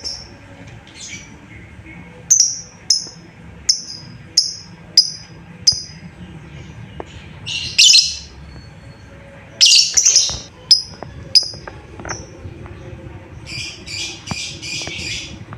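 Lovebird calling: a series of sharp, high chirps about every two-thirds of a second, then louder harsh bursts in the middle and a fast chattering run near the end.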